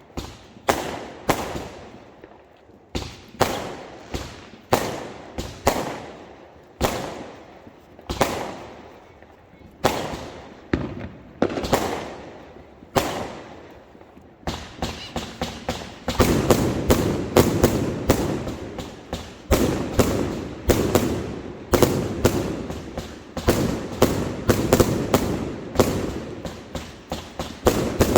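Fireworks going off: single sharp bangs about once a second, each with an echoing tail, then from about halfway a denser, louder barrage of rapid crackling bangs.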